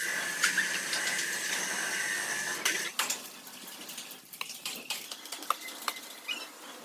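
Scattered light metallic clinks and taps over a steady hiss; the hiss drops away about three seconds in, leaving only the odd click.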